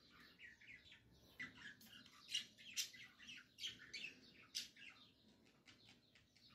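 Birds chirping faintly in the background: a run of short, quick chirps coming irregularly, several each second.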